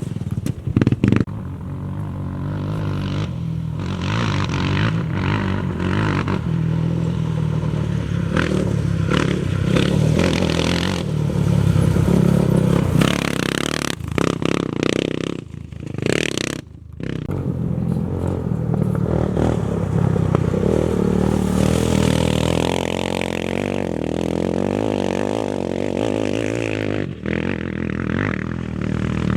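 Off-road racing motorcycle and quad engines revving and running hard as they pass on a dirt course, with gritty clatter from the ground. The sound dips briefly about halfway through.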